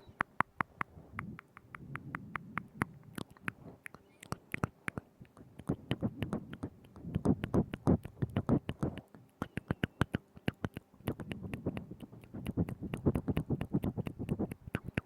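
Mouth sounds right at a binaural microphone: rapid wet clicks and smacks of the tongue and lips, several a second. They come in busier clusters with quieter stretches between them.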